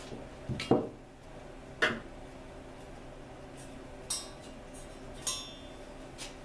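Metal parts and tools being handled at a workbench: five or six separate clinks and knocks of metal on metal, one ringing briefly about five seconds in.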